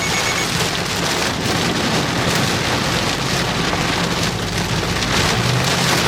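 Heavy rain pelting the vehicle, heard from inside the cabin while driving, an even dense hiss with a steady low hum from the moving vehicle beneath it.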